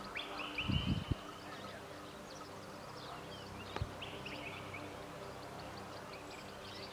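Birds chirping and trilling over a steady low hum. There are a few dull thumps about a second in and one sharp knock a little before the middle.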